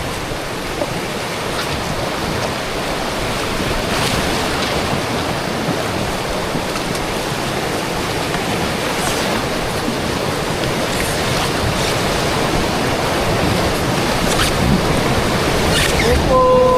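Steady rush of river water through rapids, loud and even throughout. A short steady tone sounds right at the end.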